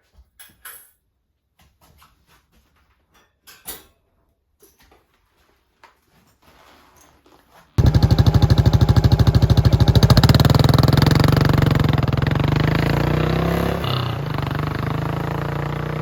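A few faint clicks and knocks, then about eight seconds in the Yamaha SR400's single-cylinder engine, fitted with a custom muffler, starts sounding loudly with a fast, even beat, its pitch rising and falling slightly.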